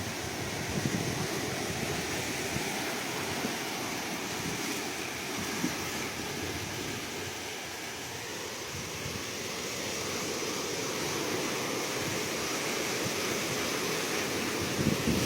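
Ocean surf: a steady rush of waves washing in, easing slightly midway and building again toward the end.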